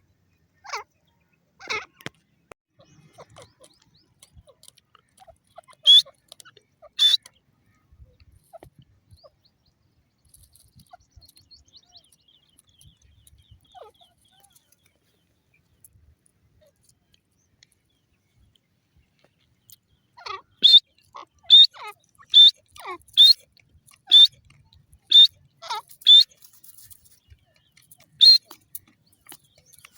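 Grey francolin calling. There are a few call notes at the start and two loud, sharp notes about six and seven seconds in. Past two-thirds of the way comes a run of about ten loud, shrill notes, roughly one every three-quarters of a second.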